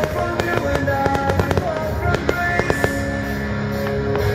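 Aerial fireworks bursting, a series of sharp bangs at irregular intervals, heard together with loud music of sustained notes.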